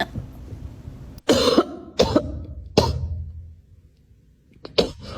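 Three harsh coughs in quick succession, then, after a pause, two short sharp coughing sounds near the end.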